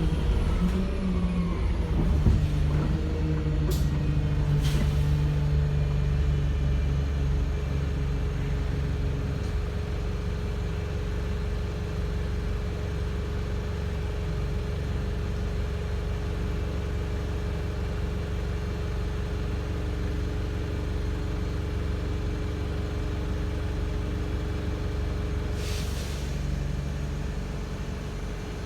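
Wright StreetLite single-deck bus running with a steady low engine drone whose note shifts during the first few seconds before settling. A short hissing burst comes near the end.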